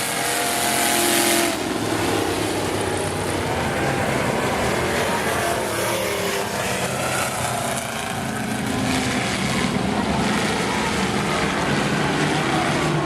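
Several demo cars' engines running together on the track, their pitches rising and falling as they throttle up and down. A loud rushing noise sits over them for the first second and a half.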